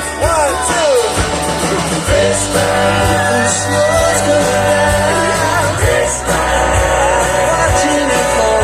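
Live band playing a song, with a singer's sliding vocal and a steady drum beat.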